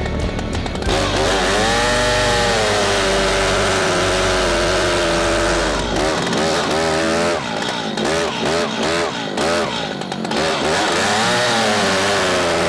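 Stihl MS 881 two-stroke chainsaw running under load while cutting. Its pitch sags and climbs again in slow sweeps, steadier for several seconds early on, then rising and falling more often in the second half.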